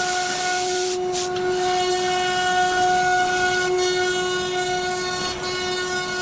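Spindle of a 1325 ATC CNC router running at steady speed with a high, even whine. A short burst of hiss comes just after a second in.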